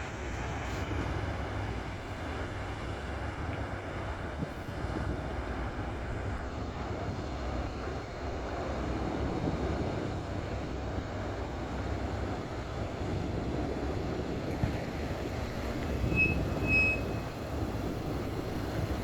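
A docked ferry's engines running with a steady low rumble. Two brief high beeps sound near the end.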